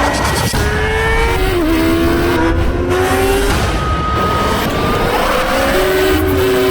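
Sport-bike engine running at high revs under acceleration, its pitch climbing steadily and stepping down at gear changes.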